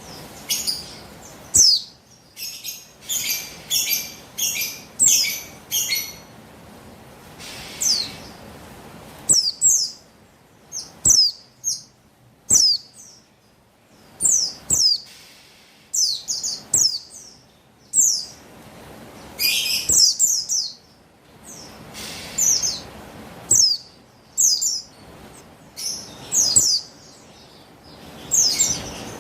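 Female Buxtoni white-eye (pleci) calling: quick, high chirps, many sliding down in pitch, in bursts of several notes with short pauses between. It is the female's call to males, used as a lure to get male white-eyes singing.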